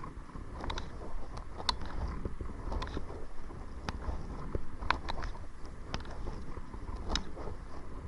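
Kayak paddling, with a sharp click or knock about once a second as the strokes go, over a steady low wind rumble on the microphone.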